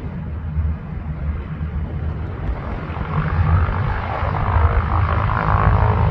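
1945 North American SNJ-6 Texan's Pratt & Whitney R-1340 Wasp radial engine and propeller running, growing louder from about halfway in as the plane draws closer, over a steady low rumble.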